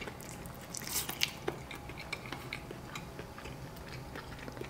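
A man chewing a mouthful of soft steamed rice roll (bánh cuốn), with small wet mouth clicks scattered throughout, a little louder about a second in.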